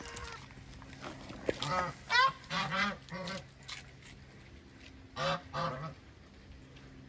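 Domestic geese honking: a run of short honks a couple of seconds in, then two more about five seconds in.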